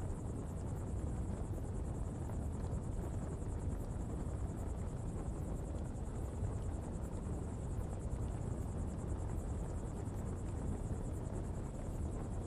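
Open coal pottery fire burning with a steady low rumble, under a steady high-pitched insect drone.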